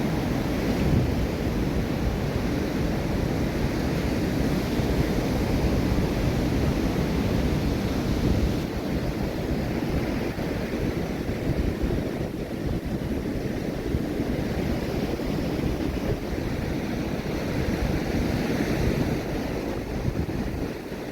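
Ocean waves breaking and washing on a sandy beach, a steady rushing surf, with wind buffeting the microphone.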